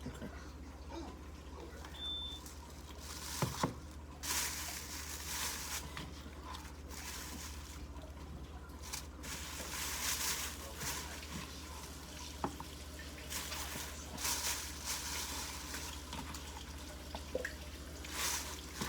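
Kitchen tap running in short spells, turned on and off several times, with a few light knocks and clicks.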